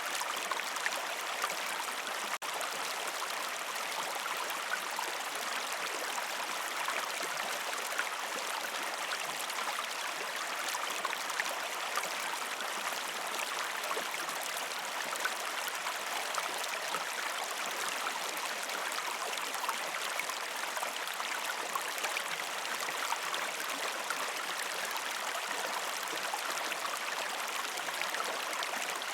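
Gentle river stream flowing over rocks: a steady rush of water dotted with small splashes and gurgles. It briefly drops out for an instant about two seconds in.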